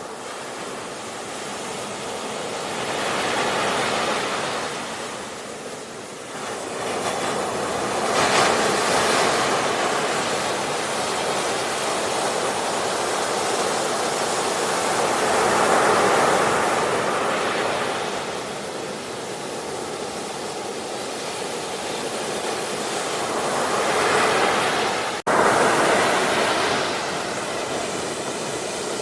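Ocean surf: waves rushing in and washing back in slow swells every several seconds, with a momentary dropout about 25 seconds in.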